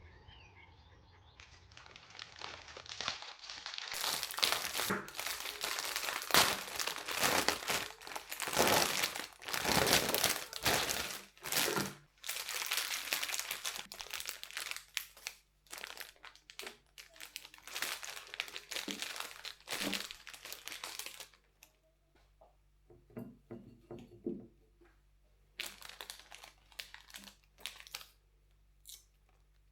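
Irregular crinkling and rustling, dense at first and sparser after about 21 seconds in.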